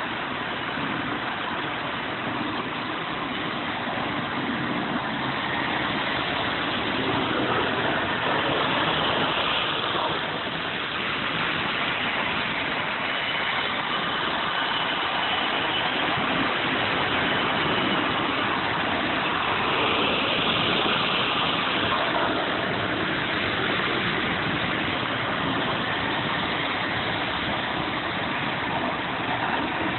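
Model train running on its track: a steady whirring rumble of motor and wheels that swells and fades a little as it comes round.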